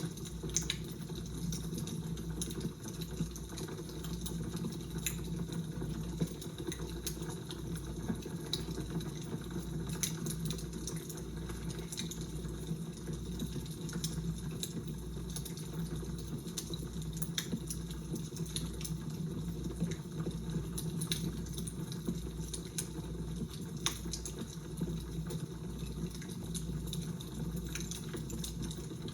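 Fire crackling: a steady hiss with scattered sharp pops and snaps, over a low rumble.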